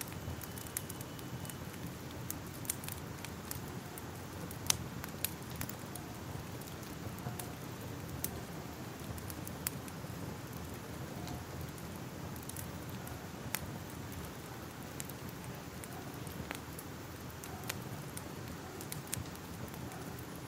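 Fire crackling: irregular sharp pops and snaps over a steady low rush, with a louder pop about five seconds in.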